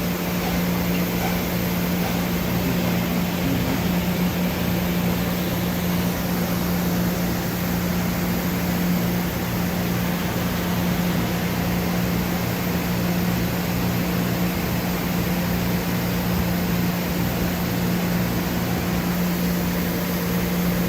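Main spindle of a Doosan Puma MX1600ST CNC turning and milling center running at about 2,500 RPM: a steady machine hum with a constant low tone.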